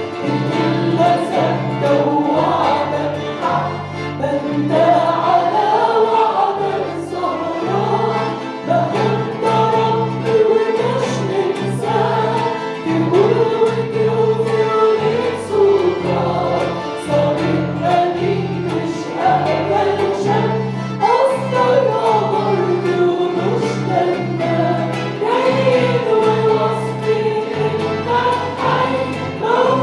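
Group of voices singing an Arabic worship song, with instrumental accompaniment: held bass notes changing about once a second under the melody, and light, regular percussion ticks.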